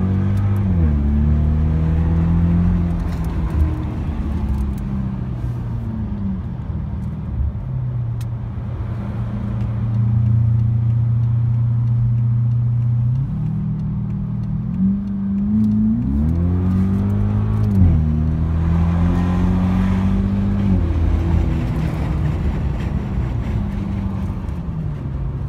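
BMW 550i's N63 twin-turbo V8 heard from inside the cabin, its exhaust running through open muffler bypass valves, so the engine note carries loudly into the car. The pitch holds steady for long stretches, climbs steadily for a few seconds past the middle and drops sharply at an upshift, then settles again.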